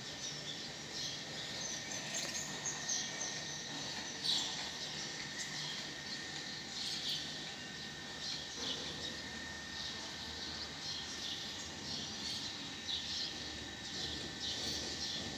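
Birds chirping on and off over steady outdoor background noise, with a thin steady high tone running underneath.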